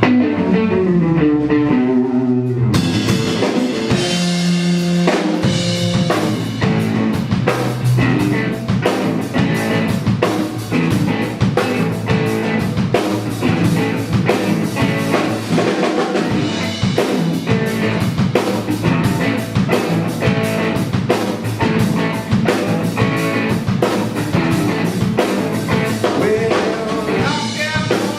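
Live rock band playing a guitar riff: the guitar starts alone, then the drum kit comes in about three seconds in and the band plays on together.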